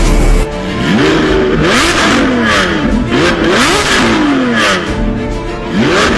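Sports car engine revving hard, its pitch climbing and dropping back again and again in quick succession.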